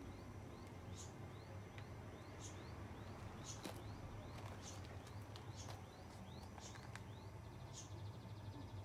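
Small birds calling in a garden: one repeats a short rising chirp about twice a second while higher, sharper chirps come every second or so, with a brief fast trill near the end. A faint low hum runs underneath.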